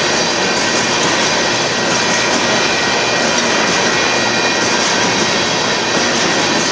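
Freight train of covered hopper cars rolling past: a steady, loud rolling noise of steel wheels on the rails.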